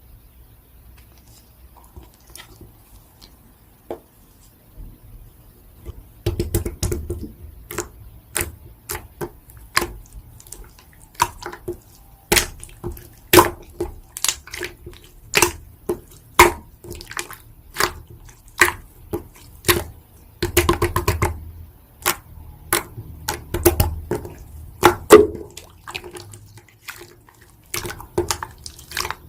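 Slime being played with by hand, making wet clicks and pops. Faint and sparse at first, then about six seconds in it becomes steady popping at about one or two a second, with squelching in between.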